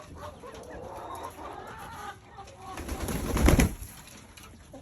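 Chickens clucking and cooing in a coop, with a loud rustling burst about three seconds in.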